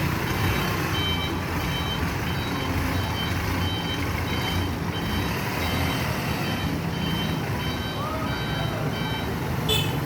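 Reverse alarm on a Mitsubishi Colt Diesel Canter FE SHDX dump truck beeping steadily about twice a second over the truck's diesel engine running, as the truck backs up. A short sharp knock comes near the end.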